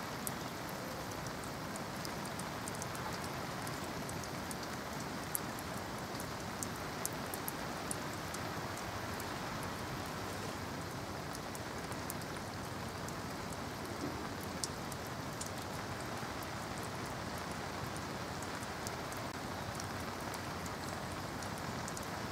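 Steady rain, an even hiss with scattered sharp ticks.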